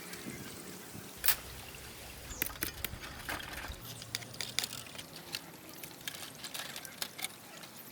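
Water trickling and splashing, with many irregular sharp clicks and ticks over a faint low steady rush.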